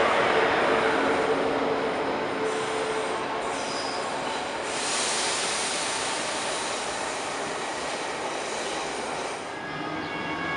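Trains in a large station: rail and wheel noise with squeal, loudest at first, then a hiss from about halfway in that stops near the end. As the DB class 120 electric locomotive starts to pull away, a few steady electric tones come in near the end.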